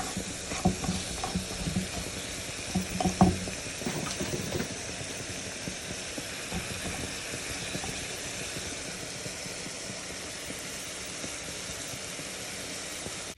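Pot of fresh green beans in oil and added hot water sizzling and steaming, a steady hiss. A few knocks and clicks of utensil or pot in the first four seconds.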